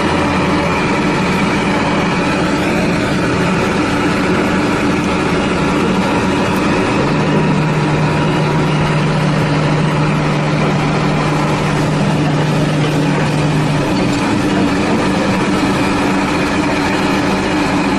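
A heavy machine's engine running steadily, with a steady low hum that comes in about seven seconds in and drops out about seven seconds later.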